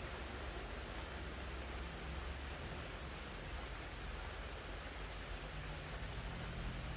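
Steady rain falling: an even hiss with a few faint drop ticks, over a low rumble.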